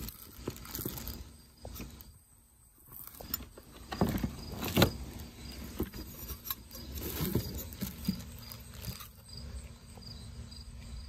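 Rustling with scattered light clicks and knocks as ceiling fan parts and packaging are handled, over a faint steady chirring of crickets in the background.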